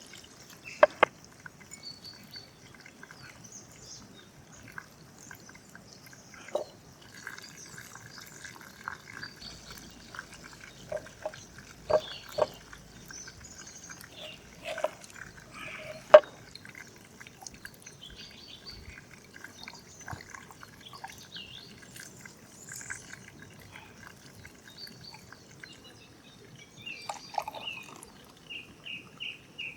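Scattered sharp knocks and clinks of outdoor food preparation, about a dozen spread irregularly, with faint chirping in the background.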